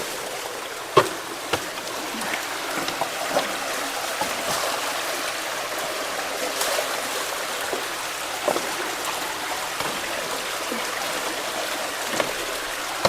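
Fast-running creek water rushing steadily at a culvert being cleared of debris, with a few sharp knocks and splashes on top, the loudest about a second in.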